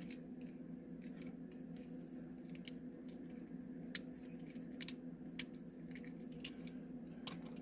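Faint, scattered clicks and taps of small plastic toy-car parts being handled and fitted, over a steady low hum.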